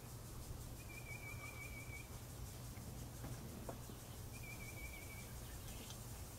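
Two short, wavering whistled notes, each about a second long, about three seconds apart, over a low steady hum.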